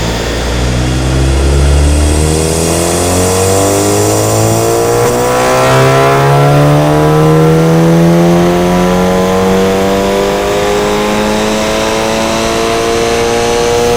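Volkswagen Golf VII GTI TCR's turbocharged 2.0 TSI four-cylinder, Stage 2 tuned, pulling hard through an Armytrix exhaust, its note rising slowly and steadily through the revs as in a long full-throttle run in one gear.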